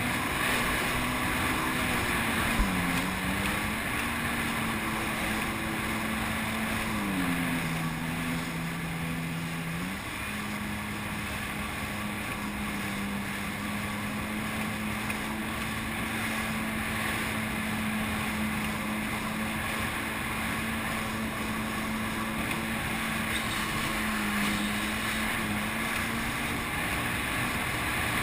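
Jet ski engine running under way over a steady rush of water and wind. Its note dips in pitch a few times as the throttle eases and picks up.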